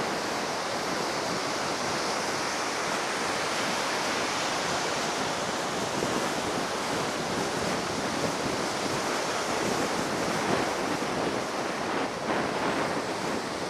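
Heavy ocean surf breaking in a steady wash of noise, the waves running high after a typhoon, with wind blowing across the microphone.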